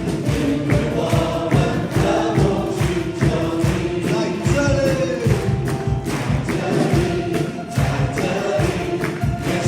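Live worship band and singers performing a praise song, voices singing together over a steady beat.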